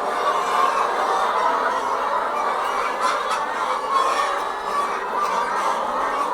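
A large flock of chickens clucking and calling all at once in a continuous, dense din. The noise is their agitated reaction to an unusual disturbance around them.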